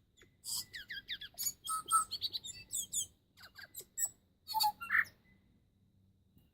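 Bird song: a quick, varied run of high chirps, whistles and clicks that stops about five seconds in.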